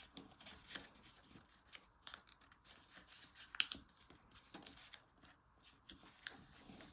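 Origami paper rustling and crinkling as it is folded and creased by hand: faint, scattered crackles, with one sharper crackle about three and a half seconds in.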